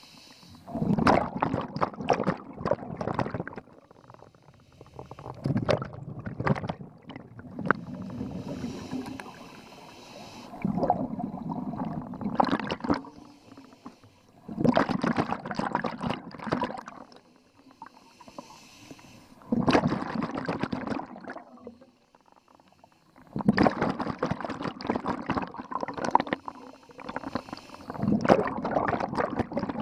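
Scuba diver breathing through a regulator: a gurgling rush of exhaled bubbles every four to five seconds, with a fainter high hiss of inhalation between some of them.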